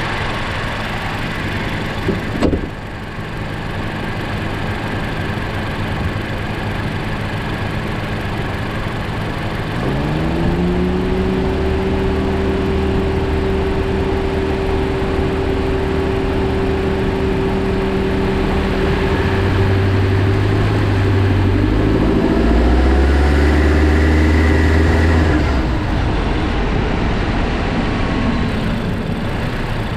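Honda Jade 1.5-litre turbo engine heard from inside the engine bay. It idles, then about ten seconds in it pulls away under acceleration: engine speed rises and holds steady, rises again, and falls back near the end. Under strong acceleration from a standstill it makes a hissing, swishing 'shuru-shuru shaa' noise, which the owner suspects is a slipping accessory belt or a worn pulley bearing.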